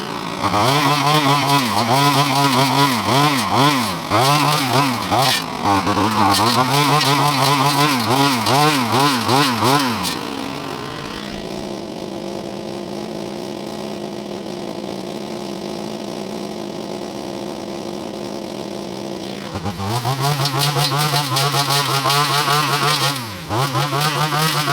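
Chainsaw engine revving up and down under load while cutting, settling to a steadier idle for about nine seconds in the middle, then revving through cuts again.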